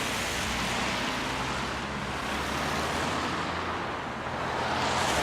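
Motor vehicle running with a steady low engine hum and road noise.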